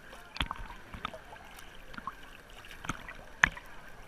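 Wave-pool water sloshing around the camera, with about four sharp slaps of water striking it, the loudest about three and a half seconds in.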